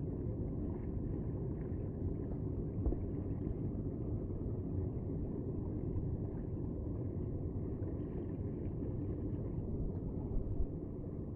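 Steady low rumbling noise, even and unbroken, with a dull, muffled tone.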